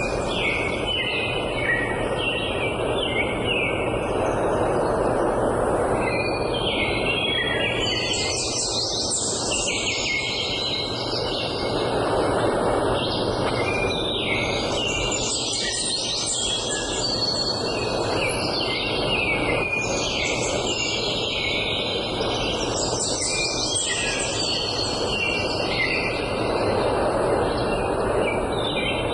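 A chorus of several songbirds singing and chirping over one another, with no pause, above a steady background rush.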